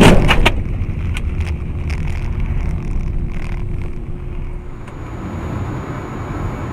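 A few sharp knocks and cracks right at the start, then a steady low vehicle rumble with a faint steady hum that stops about two-thirds of the way through.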